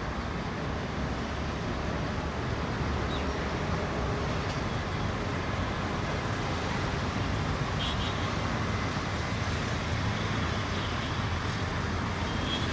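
Steady low rumble and hiss of a container freight train rolling away along the track, mixed with distant traffic.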